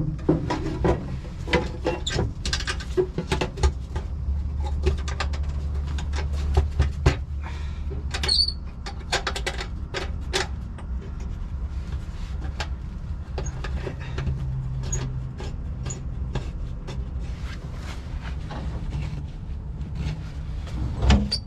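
Irregular clicks, knocks and plastic clatter as a forklift's air filter element is seated in its housing and the cover parts are handled, over a steady low hum.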